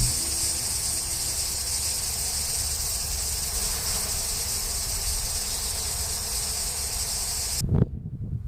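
A steady, high-pitched insect chorus over a low rumble, cutting off suddenly near the end.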